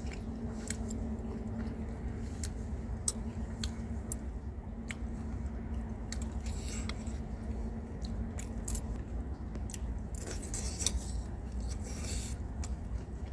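Eating at a meal: scattered light clicks of utensils against a bowl, with chewing and two short rustling stretches, one about halfway and a longer one near the end.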